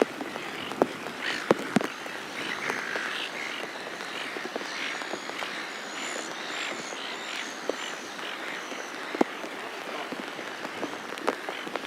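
Silver gulls calling: many short, harsh calls one after another, with higher, thinner chirps in the middle and a few sharp clicks or knocks scattered through.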